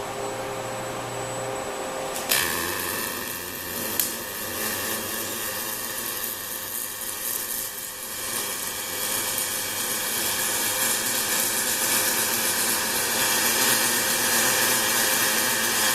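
Robotic MIG welding with a Fronius CMT (Cold Metal Transfer) power source. A steady machine hum gives way, about two seconds in, to a sharp strike and then a steady welding-arc hiss and buzz that runs on and grows slightly louder. A second sharp crack comes a couple of seconds after the strike.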